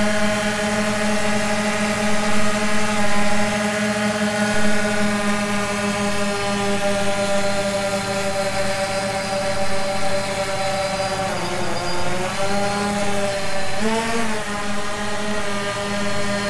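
DJI Phantom 2 Vision+ quadcopter's motors and propellers buzzing steadily in a low hover. The pitch dips and recovers twice, about twelve and fourteen seconds in, as the throttle is eased back.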